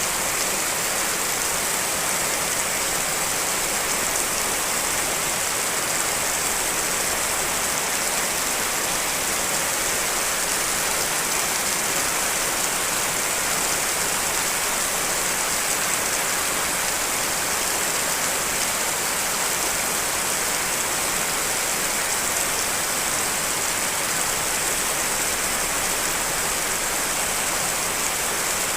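Steady rain with a dense, even hiss.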